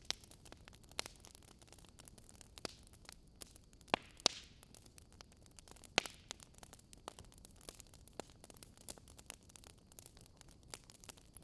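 Burning firewood crackling: irregular sharp pops and snaps over a soft hiss, with a few louder pops near the middle.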